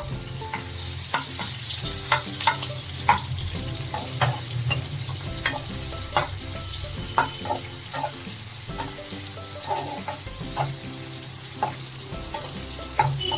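Chopped onion sizzling as it fries in hot mustard oil, with a steady hiss and a utensil scraping and knocking against the pan at irregular moments as it is stirred.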